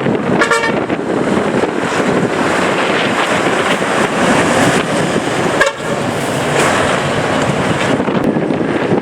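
A truck horn sounds a short toot about half a second in and another brief one a little past the middle, over a steady rush of wind on the microphone and vehicle noise.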